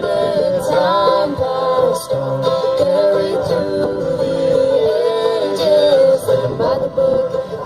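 Acoustic string band playing an instrumental passage of the song, with no sung words.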